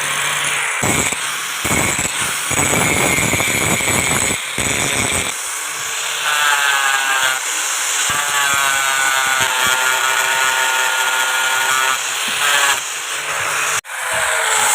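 A power tool working steel, heard in several clips that cut abruptly. For the first few seconds it is a rough, gritty noise; from about five seconds in, a steady whine with several pitches rides over it.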